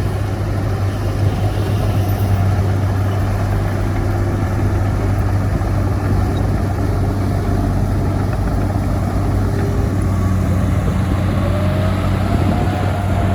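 Heavy diesel earthmoving machinery running steadily with a deep engine hum. Near the end a whine rises in pitch as an engine takes on more throttle.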